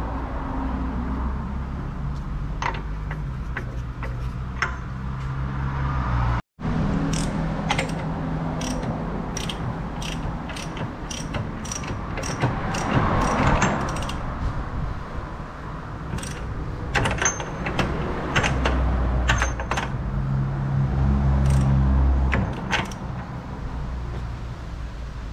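Metal tools and parts clinking and clanking as they are handled during car repair work, over a low steady hum, with a busier stretch of clatter in the middle and again later.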